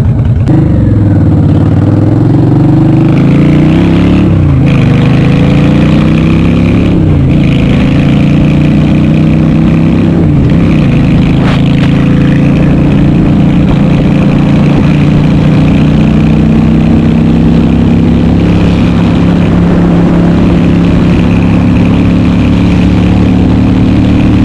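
Honda Shadow RS VT750S V-twin engine accelerating through the gears. The pitch climbs and drops with each of several upshifts over the first ten seconds or so, then the engine holds a steady cruising note.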